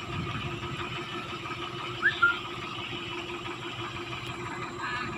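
A fishing boat's engine running steadily with an even hum. About two seconds in there are two short high chirps, the first rising.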